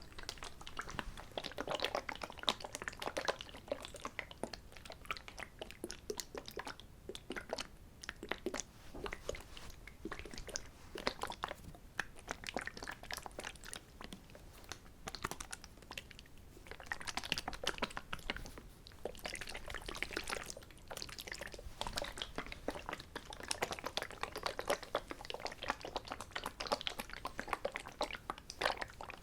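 Close-miked crisp crackling and clicking in dense clusters, with a quieter spell about halfway through.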